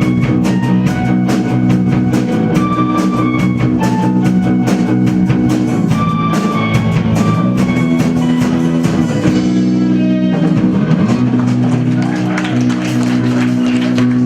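Rock band music: sustained guitar chords over a drum kit, with a short break about ten seconds in before the chords resume.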